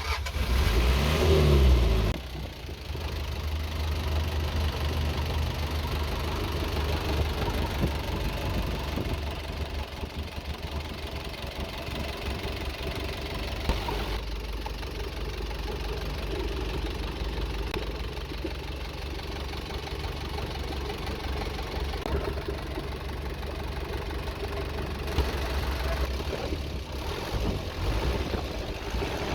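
Mazda T3500 truck's diesel engine, freshly rebuilt with a new crankshaft, starting with a louder burst in the first two seconds and then settling into a steady idle.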